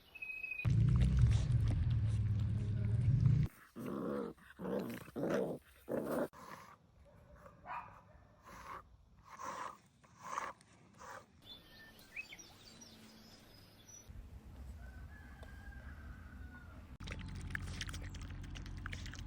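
Young puppies growling and yapping in a run of short bursts, between stretches of loud low rumbling noise near the start and the end.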